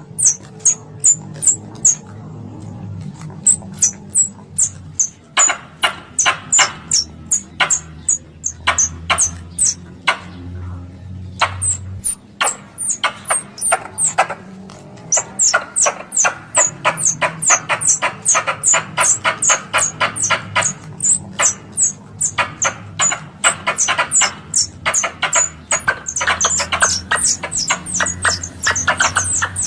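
Squirrel lure call of the plantain (coconut) squirrel: a long series of sharp, high chirps, each falling in pitch, at about two to four a second. The chirps come in runs with short pauses and grow denser in the second half, over a faint low hum.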